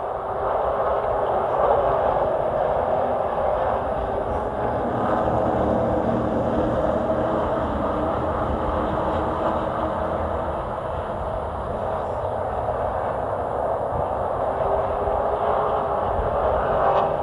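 Racing pickup truck's engine running at race speed: a steady, loud drone with little change in pitch.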